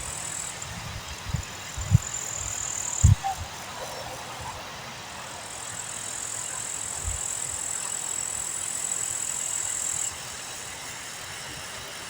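Wind gusting across the microphone, with short low rumbling thumps a few times in the first half over a steady rushing hiss. A thin, high, steady hiss-like tone cuts in and out.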